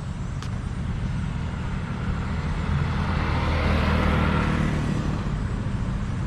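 A road vehicle passing close by, its tyre and engine noise swelling to a peak about four seconds in and then fading, over a steady low traffic rumble.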